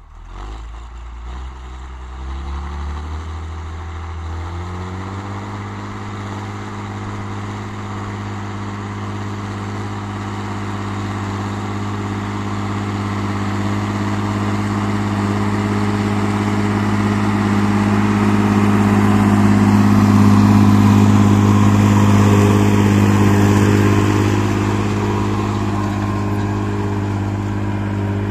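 Fendt tractor's diesel engine revving up over the first few seconds, then running steadily at high revs, growing louder to a peak about two-thirds of the way through and easing a little near the end.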